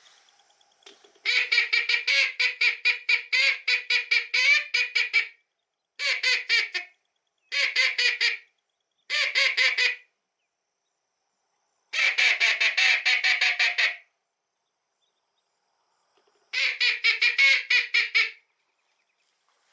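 Hand-blown duck call: runs of rapid quacking notes, about five a second, in six bursts of one to four seconds, calling to ducks flying over the blind.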